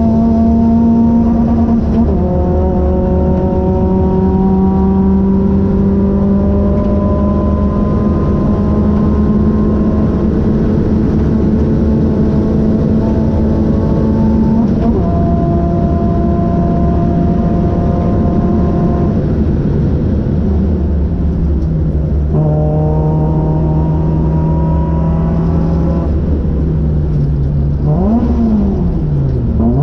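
Renault Clio 182's 2.0-litre four-cylinder engine heard from inside the cabin, pulling hard on track with the revs climbing slowly in each gear and stepping down at several gear changes. Near the end the revs fall sharply and rise again.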